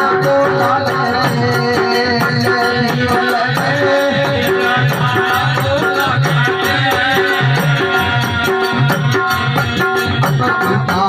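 Instrumental interlude of a live folk devotional bhajan: held melody notes over a quick, steady drum beat with rattling, jingling percussion.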